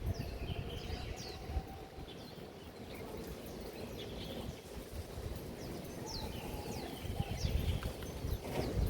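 Small birds calling with short, repeated falling chirps, over a low uneven rumble of wind on the microphone.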